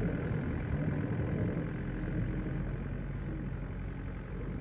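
Heavy engine running steadily at an even pitch, from a snow-clearing machine working after a blizzard.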